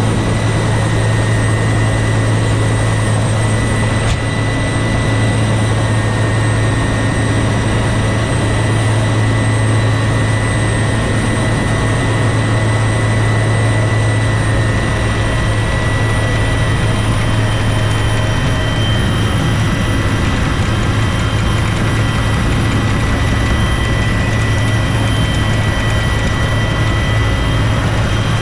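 Bell UH-1 Huey helicopter running: a steady low rotor drone with a constant high turbine whine over it.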